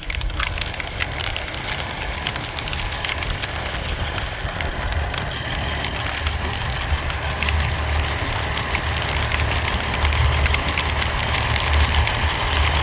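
Heavy rain pattering as a dense stream of irregular ticks, over the low rumble of an idling semi truck's engine. It comes in suddenly at the start and grows a little louder towards the end.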